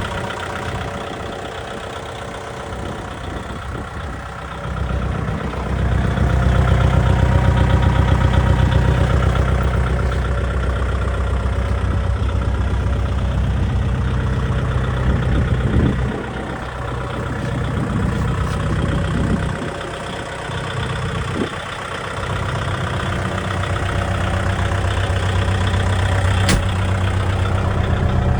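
Kubota MU4501 tractor's four-cylinder diesel engine running steadily, growing louder after about five seconds, dropping back for a few seconds past the middle, then building again; a single sharp click near the end.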